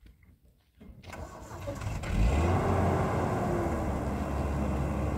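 A vehicle engine starting about a second in, catching at about two seconds and settling into a steady idle.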